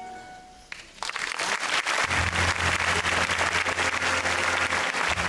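The accompaniment's last held chord fades out, and about a second in the audience breaks into applause, a dense clatter of clapping that grows louder and carries on.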